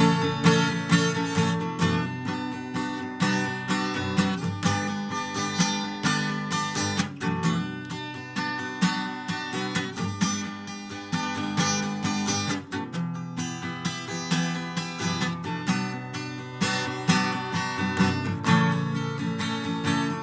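Acoustic guitar music, plucked and strummed, with no voice.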